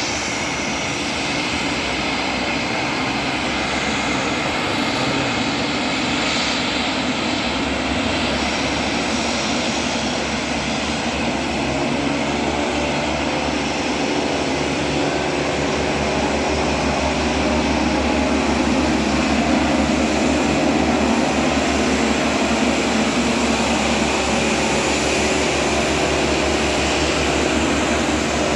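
Small fixed-wing aircraft's engines running steadily at high power for takeoff, the drone growing a little louder about halfway through.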